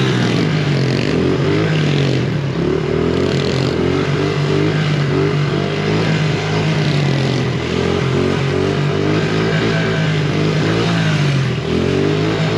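Small single-cylinder pit bike engine running and revving up and down repeatedly, its pitch dipping and climbing again several times.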